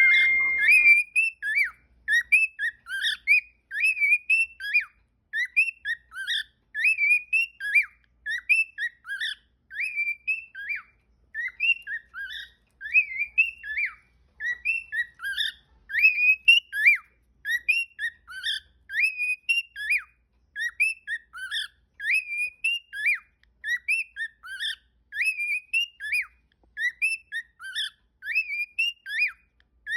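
Cockatiel whistling. It opens with one held note, then repeats quick phrases of short notes that swoop up and down, phrase after phrase with brief gaps.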